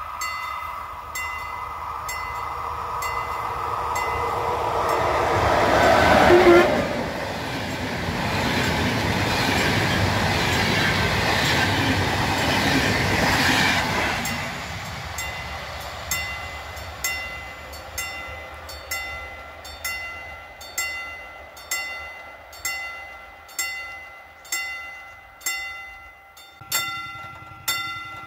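Passenger train passing on the rails: its rumble and wheel noise swell to a peak about six and a half seconds in and fade away from about fourteen seconds. A level-crossing bell dings about once a second throughout and is clearest once the train has gone.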